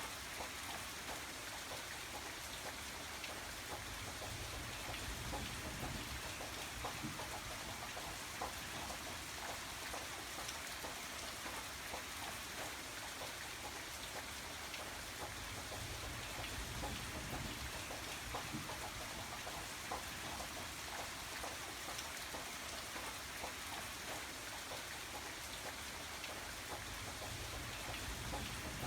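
Steady rain falling on a surface, a continuous hiss of many small drops with individual drips ticking through it and a low rumble that swells and fades every few seconds.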